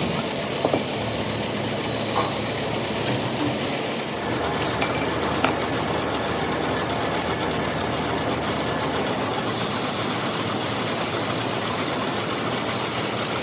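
Metal-turning lathe running steadily while machining a cast-iron V-belt pulley, with a few short metallic clicks in the first six seconds.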